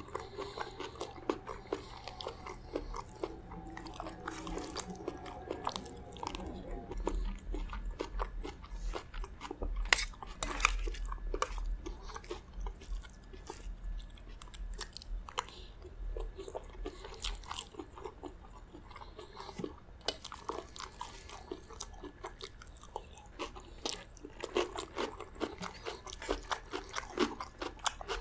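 Close-miked chewing and crunching of chicken gizzard curry with rice and lettuce, with many small sharp clicks from a metal spoon against a steel plate.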